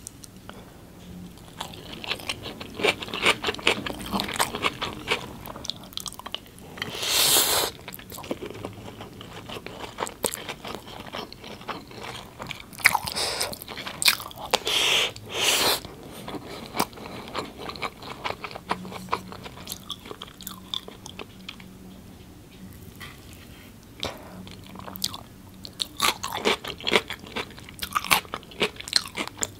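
Close-miked chewing of spoonfuls of chicken biryani: a steady run of wet mouth clicks and lip smacks, with a few louder, longer bites about 7, 13 and 15 seconds in.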